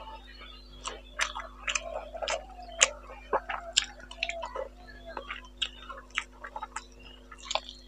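Close-up wet chewing and lip smacking while eating rice and fish curry by hand: many short, irregular smacks, with a steady low hum underneath.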